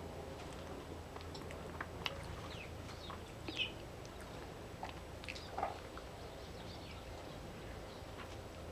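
Wild garden birds giving scattered short chirps and quick down-slurred calls, with a few light clicks in between, over a steady low hum.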